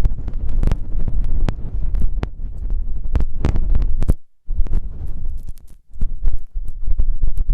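ASMR ear massage: rubbing and scratching right on a microphone's ear, giving a muffled low rumble, a pulsing like a heartbeat, and many small crackles. It stops for a moment about four seconds in.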